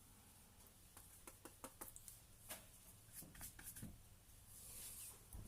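Faint dabs and strokes of a paintbrush on canvas: a scatter of soft ticks, with a longer brushing hiss near the end.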